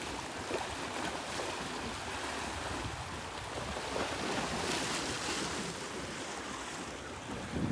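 Sea waves washing ashore with wind blowing, one wash swelling louder about halfway through.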